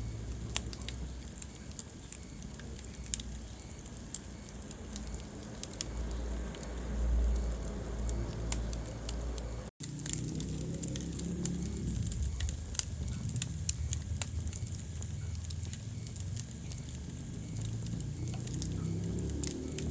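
Wood fire burning in a fireplace: scattered sharp crackles and pops over a low rumble of flames. The sound cuts out briefly about halfway through.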